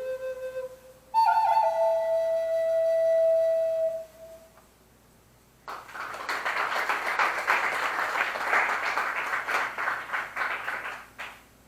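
Native American flute playing the end of a song: a few quick descending notes, then one long held note that fades out about four seconds in. After a short silence the audience applauds for about five seconds.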